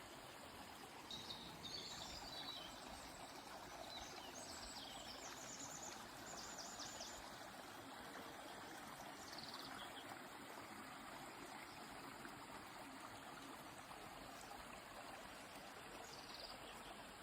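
A river flowing steadily with a soft, even rush of water, and small birds chirping on and off high above it, including a quick run of short repeated notes near the middle.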